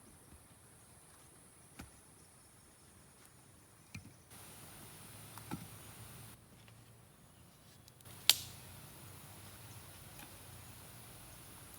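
A few faint scattered knocks and one sharp click about eight seconds in, over a faint steady high hiss.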